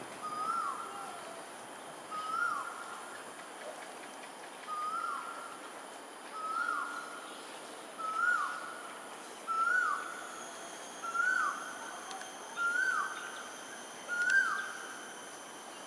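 A bird calling one whistled note over and over, about every one and a half to two seconds, each note held briefly and then dropping away. The calls grow louder and slightly higher toward the end. A faint, steady high insect buzz runs underneath.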